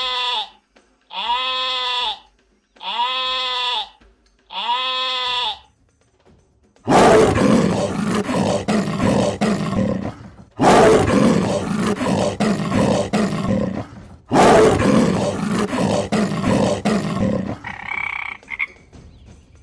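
Animal calls: five short calls that rise and fall in pitch, about one and a half seconds apart. Then three long, loud, rough roars.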